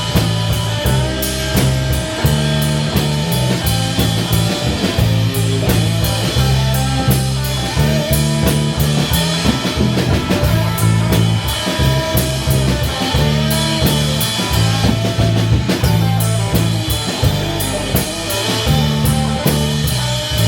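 Instrumental stretch of a rock song with no singing: guitar over bass notes and a steady drum-kit beat.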